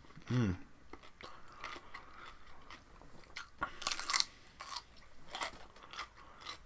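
A person biting and chewing raw vegetables close to the microphone: scattered small crunches, with a burst of loud crunching bites about four seconds in.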